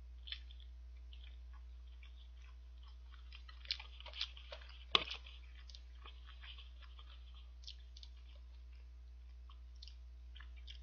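A person chewing a mouthful of boiled dumpling: soft, scattered mouth clicks and smacks, with a sharp click about five seconds in, over a steady low hum.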